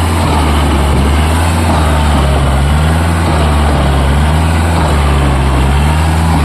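Kubota MU4501 tractor's four-cylinder diesel engine running steadily at an even speed.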